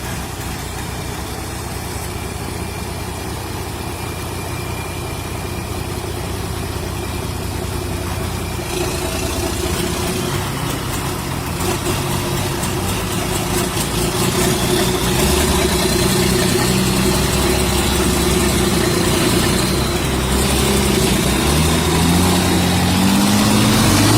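Vehicle engine running steadily and slowly growing louder. Near the end its pitch climbs in repeated rises, like an engine accelerating up through the gears.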